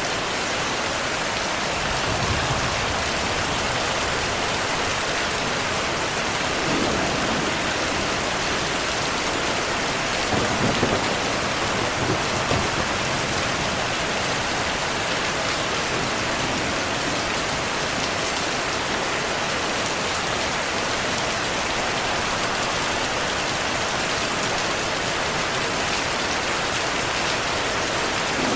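Steady heavy rain falling, with low rolls of distant thunder about two seconds in and again around ten to thirteen seconds in.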